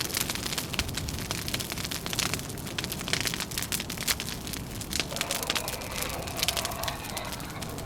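Wood fire crackling with dense, irregular pops and snaps. From about five seconds in, a low wavering howl rises and falls beneath it.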